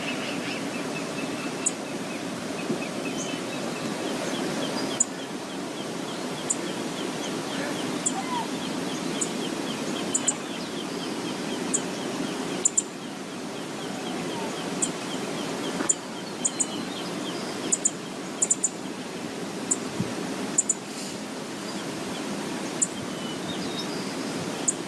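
Steady rush of the river pouring over Brooks Falls, mixed with wind noise on the microphone. Short, sharp high ticks come every second or two, and a bird trills faintly through the middle.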